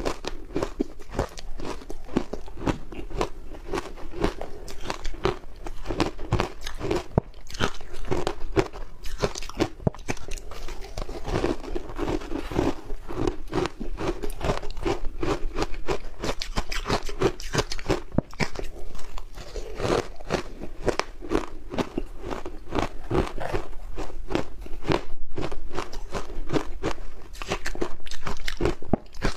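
Crunchy ice coated in matcha powder being bitten and chewed, a rapid, continuous run of crisp crunches several times a second.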